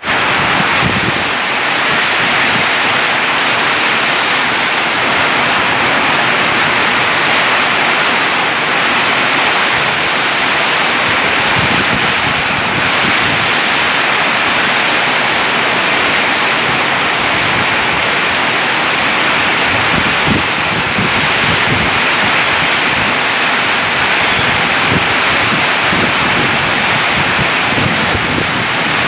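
Heavy rain pouring down in a steady, loud hiss, with gusts of wind buffeting the microphone now and then.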